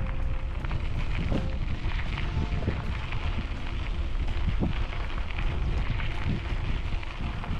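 Wind buffeting the microphone of a camera carried on a moving bicycle: a loud, deep rumble with faint music notes showing through now and then.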